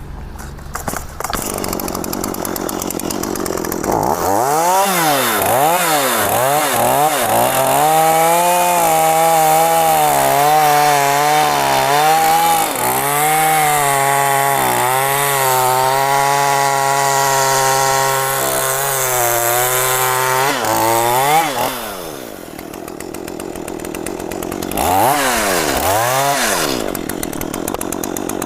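Two-stroke chainsaw cutting mahogany. It revs up a few seconds in, then holds a steady, slightly wavering pitch under load as it cuts for about fifteen seconds. It falls back to a lower idle, then revs up and down again near the end.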